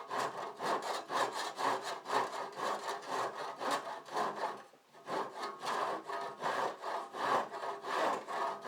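Handsaw cutting through a garage door with back-and-forth strokes, about three a second. The strokes stop briefly about halfway through, then start again.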